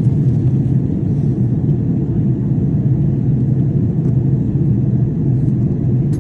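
Steady, loud low rumble of a running vehicle engine, even throughout with no clear changes.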